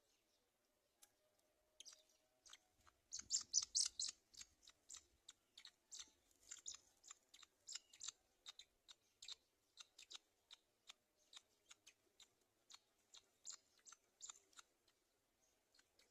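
Black-winged kite tearing and pecking at fresh prey meat with its beak: faint, irregular wet clicks and snips, coming fastest and loudest about three to four seconds in.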